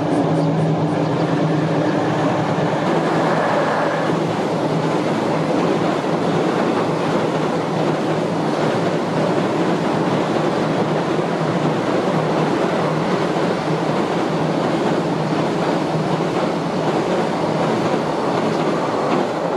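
JR Freight EF66 100-series electric locomotive passing with a steady hum for the first few seconds, then its long train of container wagons running over a steel girder bridge with a loud, continuous rumble of wheels on rails.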